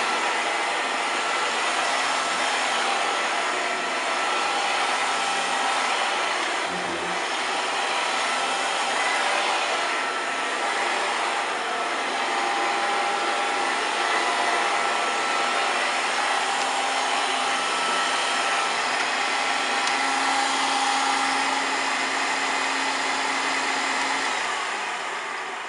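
1993 Hoover Turbopower 2 U2464 vacuum cleaner running steadily while vacuuming up cornflakes. Its level begins to drop near the end as the motor starts to wind down.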